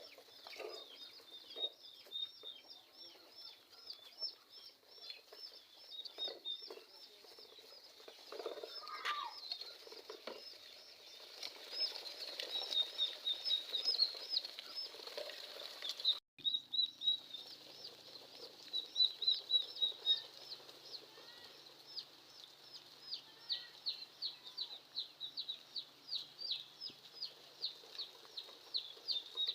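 Chicks peeping: a continuous run of short, high, falling peeps, several a second, with a brief cut in the sound about halfway through.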